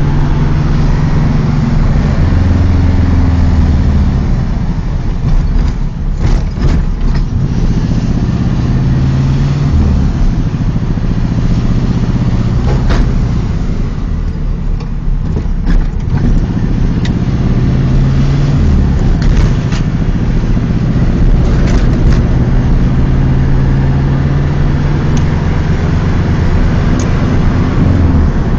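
1992 Volkswagen Beetle's air-cooled flat-four engine pulling while driving, heard from inside the cabin. Its note climbs and falls back several times as it is shifted through the gears, with a few short knocks or rattles in the middle.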